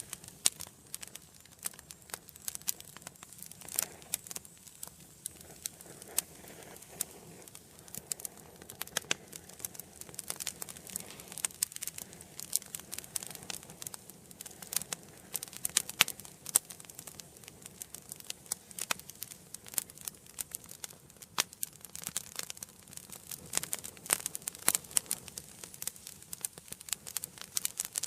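Wood fire burning in a fireplace, crackling with many irregular sharp pops and snaps over a soft, steady hiss.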